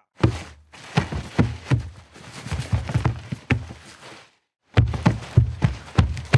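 A series of short thumps and knocks, about two to three a second, in two runs with a brief pause a little past four seconds in.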